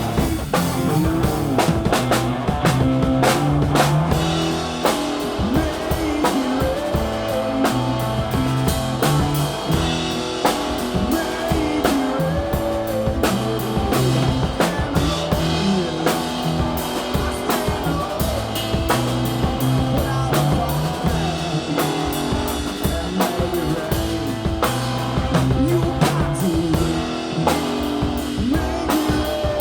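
Live band playing an instrumental break in a blues-rock song: drum kit keeping the beat under guitar, with no singing.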